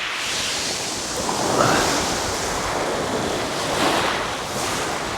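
Sea surf washing onto a shingle beach, with swells about two seconds and four seconds in, and wind buffeting the microphone.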